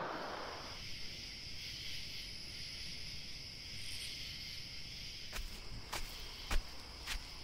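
Steady chorus of insects chirping. From about five seconds in come sharp clicks about two a second, like footsteps.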